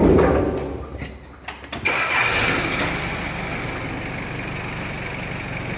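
The motor of a homemade wire-rope recoiling machine: a loud low clunk at the start, then about two seconds in the machine starts up and runs steadily with a high whine.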